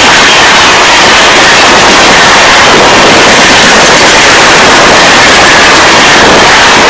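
Express train's passenger coaches passing at speed close beside the track: a loud, steady rush of wheel and wind noise, so loud it overloads the microphone into distortion.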